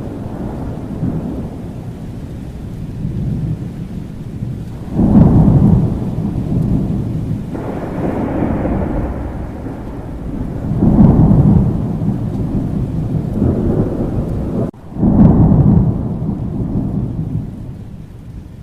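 Thunderstorm: a steady downpour of rain with rolling thunder rumbles that swell in sharply about five, eleven and fifteen seconds in.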